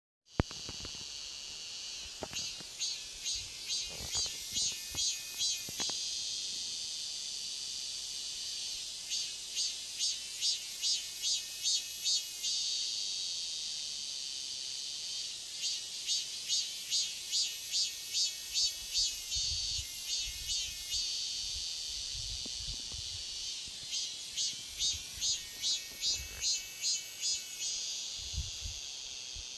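Cicadas singing. Their high-pitched song comes in repeated phrases of quick pulses, each swelling and then fading, over a steady high hiss from the rest of the chorus.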